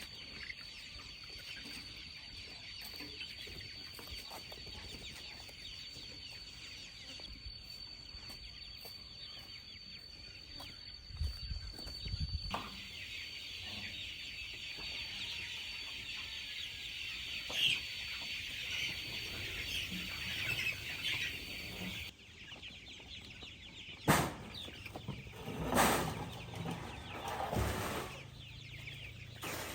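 Free-range chickens clucking, with a steady high-pitched tone in the background for the first two-thirds and a few short, louder sounds near the end.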